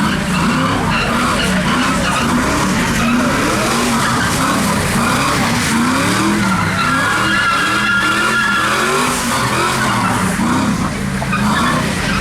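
A car doing donuts: its engine revs up and down again and again while the tyres squeal, with a steady high squeal clearest from about six to nine seconds in.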